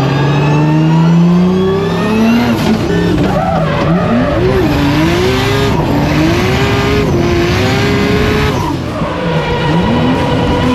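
Nissan Skyline R32 drift car's billet RB28 straight-six running at high revs, climbing steadily at first and then swinging up and down as it drifts, with tyres skidding and squealing. The revs dip briefly near the end and pick up again.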